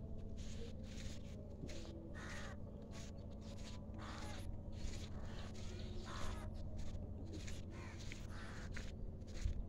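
A bird calling repeatedly, short calls about every two seconds, over a steady low rumble.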